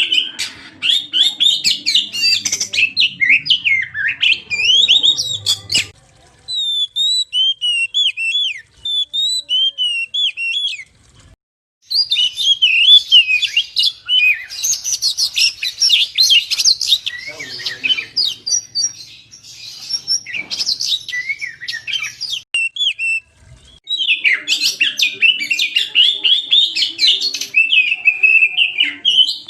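Oriental magpie-robin (kacer) singing a loud, fast stream of varied whistles and chirps, with brief pauses about six, eleven and twenty-three seconds in.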